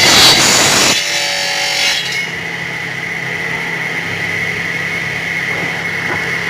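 Sawmill saw cutting through wood for about two seconds, loudest at the start, then the machinery running on with a steady high whine and hum.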